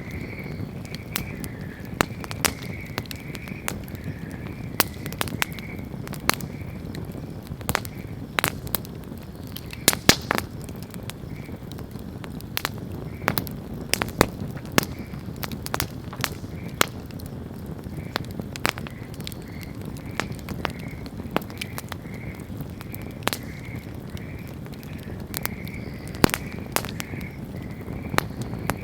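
Wood campfire crackling and popping: irregular sharp pops, some louder than others, over a steady low rustle of burning.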